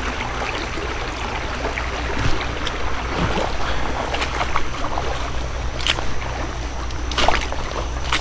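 Water sloshing and swishing around legs wading through a shallow creek, with a few short, sharper splashes in the second half.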